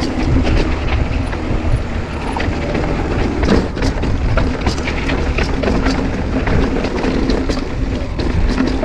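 Mountain bike descending a rough dirt trail: tyres rumbling over the ground, wind on the microphone, and a rapid scatter of clicks and rattles from the bike over bumps.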